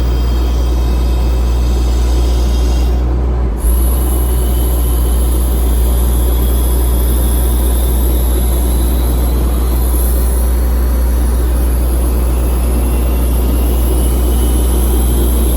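Freightliner FL80 bucket truck's diesel engine running steadily, driving the hydraulics as the lower boom is operated: a constant low rumble with a thin high whine. The sound dips briefly about three and a half seconds in, then carries on.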